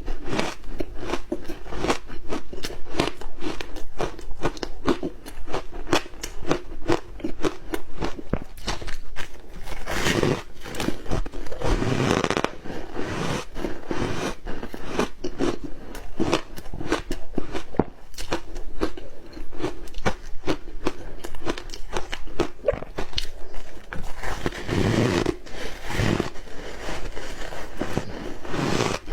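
Ice with matcha being bitten and chewed close to the microphone: continuous crackling crunches, with several louder, fuller bites along the way.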